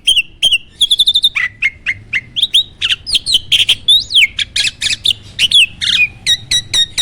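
A jalak (an Indonesian starling or myna) singing a fast, unbroken song of short whistled notes, many sliding up or down in pitch, mixed with a few harsher chattering notes.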